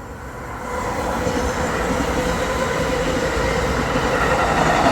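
MARC commuter train approaching, its rumble growing steadily louder, with a faint steady hum running through it.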